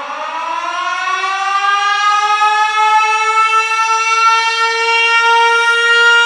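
German World War Two–style air-raid siren winding up: its wail rises in pitch and grows louder over the first few seconds, then levels off into a steady high tone.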